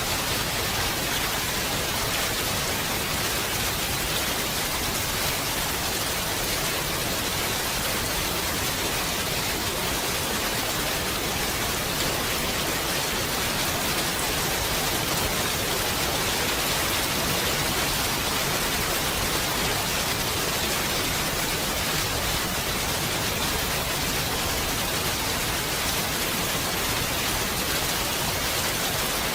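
Steady rain falling, a dense, even hiss of drops with no single drop or event standing out.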